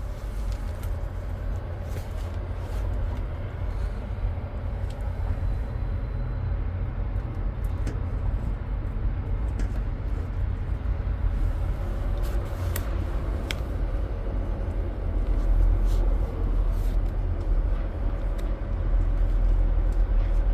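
Steady low mechanical rumble with a faint steady hum and a few light clicks.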